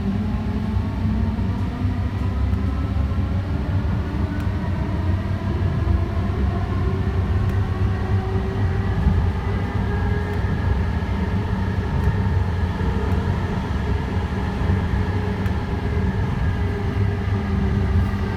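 Alstom Citadis Spirit light-rail train running between stations: a steady low rumble of wheels on rail, with the whine of the traction motors slowly rising in pitch as it picks up speed.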